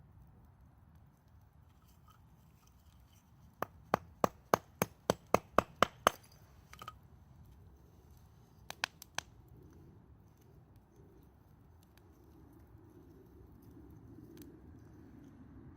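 Firewood being chopped with a hatchet: a quick run of about nine sharp, evenly spaced strikes, roughly three a second, then three more strikes a few seconds later.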